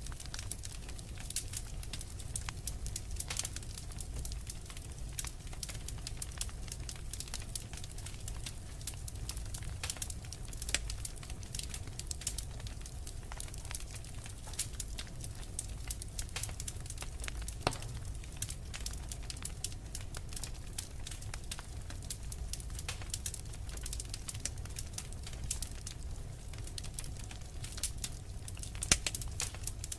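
Wood fire burning in a fireplace, crackling with frequent small irregular pops over a low steady rumble, with a sharper pop near the end.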